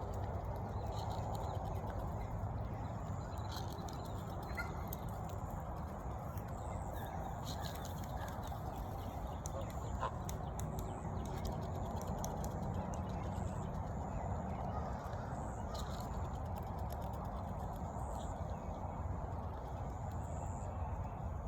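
Domestic geese making soft, scattered low calls over a steady outdoor background noise.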